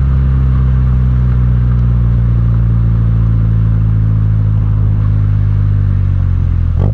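MINI Cooper S F56's 2.0-litre turbocharged four-cylinder running steadily through its exhaust, a loud, even low drone. There is a brief click near the end.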